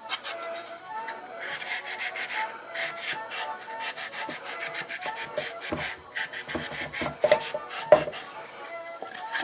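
Quick back-and-forth scrubbing strokes on the wooden body of an old hand-crank coffee grinder, cleaning out old residue. A few hollow knocks of the wooden box being handled come near the end, the loudest about eight seconds in.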